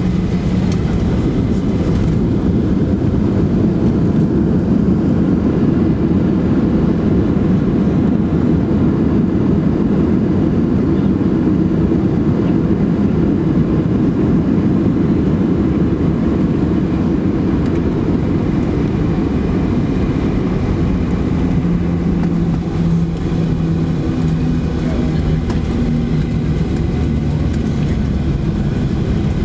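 Cabin noise of a Boeing 737 landing: a loud, steady low roar and rumble of engines and airflow. In the last several seconds it eases slightly, and steady engine tones come through.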